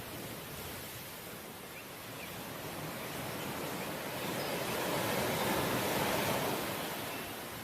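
Ocean waves washing onto the shore in a steady rush of surf, with one wave swelling louder past the middle and easing off near the end.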